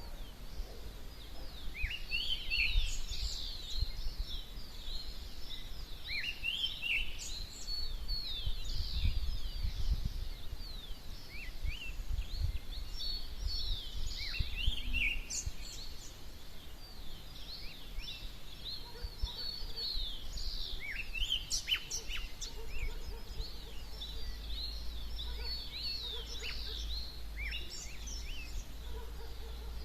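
Dawn chorus: many small birds chirping and singing at once in quick, overlapping short calls, over a steady low rumble.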